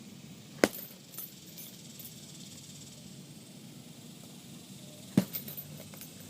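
Two hard punches landing on a heavy bag, about four and a half seconds apart, each followed by a few lighter knocks, over a steady faint hiss.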